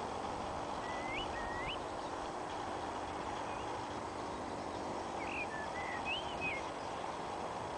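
A small bird chirping: two short rising chirps about a second in, then a quick run of several chirps between about five and six and a half seconds in, over a steady outdoor rush of noise.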